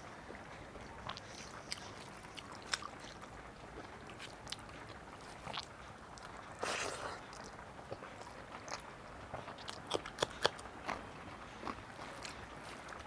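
A person chewing a meal of curry and rice close to the microphone, with many short wet mouth clicks. There is a longer crunchy burst about halfway through and a quick run of louder clicks near the end.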